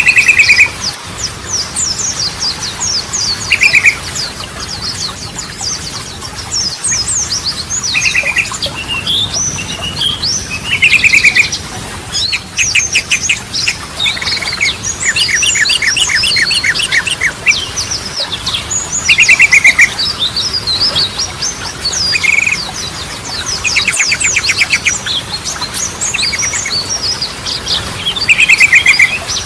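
Yellow-vented bulbul (trucukan) singing: a run of quick, bubbly chirps, broken every few seconds by a short, fast, rattling trill.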